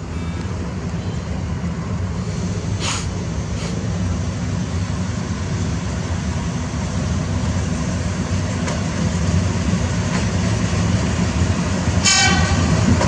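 Thai railway train running with a steady low rumble, with a brief high-pitched tone near the end.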